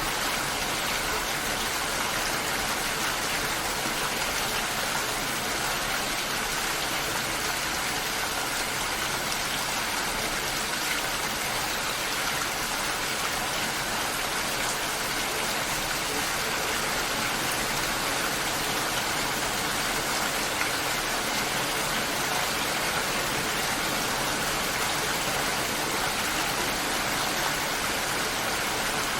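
Steady heavy rain, an even rushing hiss with no breaks.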